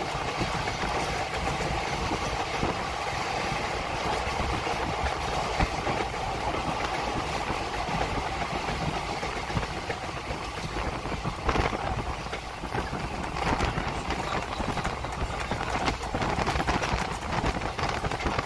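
Passenger train running at speed, heard from an open coach doorway: a steady rush of wheel-on-rail rumble and air noise, with occasional sharp clacks over the rails.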